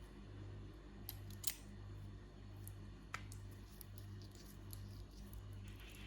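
Scissors cutting into a squishy stress toy: a few sharp snips and clicks, the loudest about a second and a half in, over a low, steadily pulsing hum.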